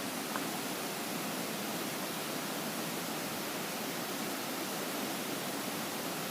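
Steady rushing of a mountain stream's running water.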